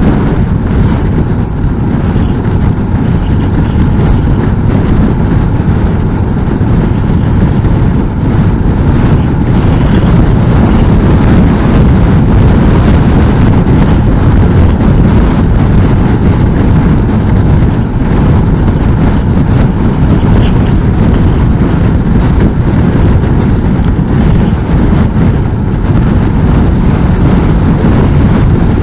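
Loud, steady wind rumble on the microphone over the engine and road noise of a Honda NC750S motorcycle cruising in strong wind.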